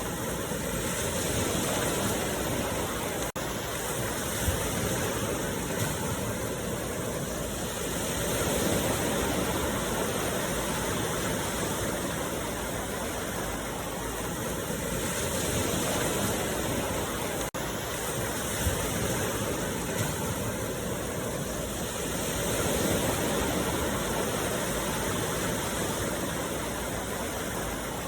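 Ocean surf, waves breaking and washing up the beach: a continuous rush that swells and eases about every seven seconds.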